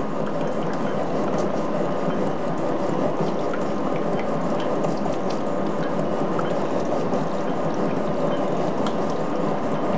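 Gear-cutting machine cutting the teeth of a large steel spur gear: a steady, even machining noise with a faint hum and scattered small ticks.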